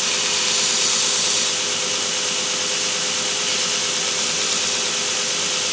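Belt grinder running with a small hammer handle held against a used 60-grit belt: a steady grinding hiss over a steady motor hum, a little louder for the first second and a half.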